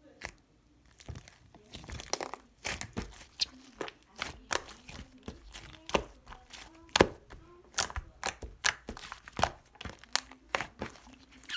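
Cloud slime being stretched, pulled apart and squeezed by hand, giving a dense, irregular run of short crackles and snaps.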